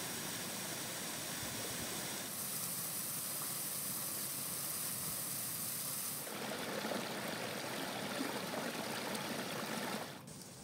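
Waterfall water falling and splashing as a steady rushing hiss. About six seconds in it turns to a fuller, lower splashing of water pouring over rocks into a pool, and it cuts off near the end.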